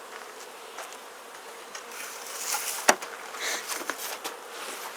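Honeybees buzzing steadily around an open Langstroth hive. Wooden hive parts scrape and rustle as the hive is closed, with one sharp knock about three seconds in as the cover goes on.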